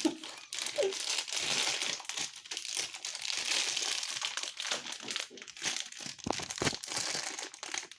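A toy wrapper crinkling, with irregular crackles, as it is handled and opened.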